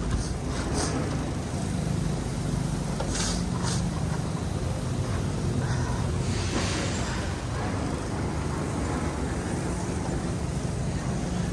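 City street traffic: a steady low engine hum from vehicles, with a few brief high hisses and a longer hiss about six seconds in.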